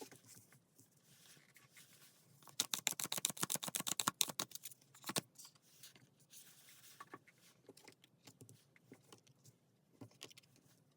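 Tarot cards being shuffled by hand: a rapid run of crisp card clicks, about a dozen a second, lasting a couple of seconds, then scattered softer clicks and rubs of cards being handled.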